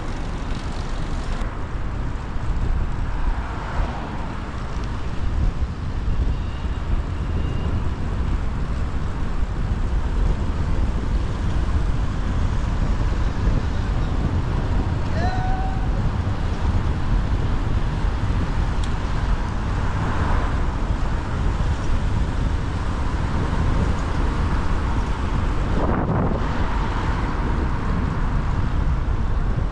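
Wind rushing over the microphone of a camera on a moving bicycle, over steady city traffic noise.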